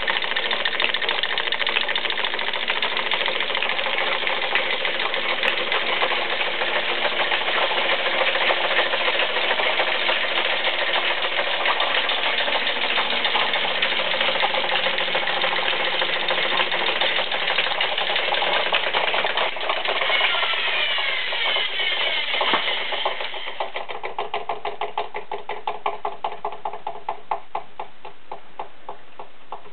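Restored W.F.&J. Barnes flat-belt camelback drill press running off an electric motor through leather flat belts and pulleys, with a steady mechanical clatter. About twenty seconds in its pitch falls, and it ends with a fading, rhythmic ticking as it coasts down.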